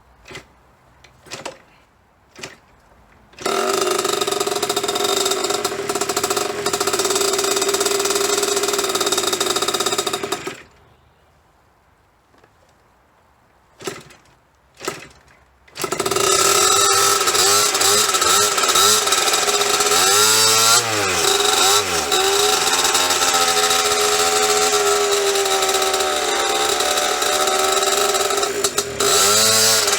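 A 1998 KTM 50's small two-stroke single-cylinder engine gives three short bursts, then catches and runs steadily for about seven seconds before it dies. After two more short bursts it starts again and runs to the end, with the throttle blipped up and down a few times. It will not stay running, which the owner puts down to the carburetor not getting enough fuel.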